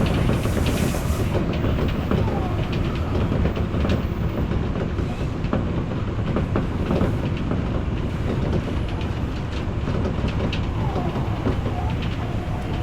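Odakyu Line electric commuter train running along the track, a steady rumble with occasional clicks of the wheels over the rails and a few faint brief squeals.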